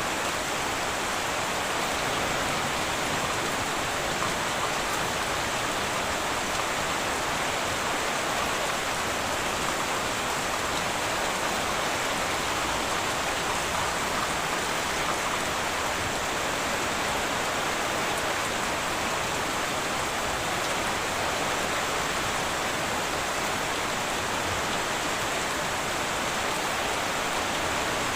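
Heavy rain falling steadily on a tin roof: an even, unbroken hiss of drops with no change in strength.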